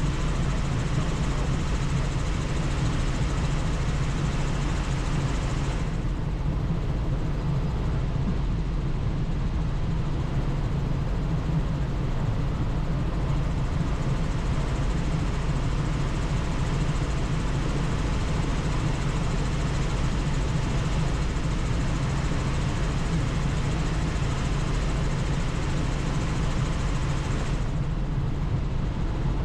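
Helicopter in flight: rotor and engine running steadily at cruise, with a constant low hum under an even rush of noise. A high hiss drops away about six seconds in and comes back near the end.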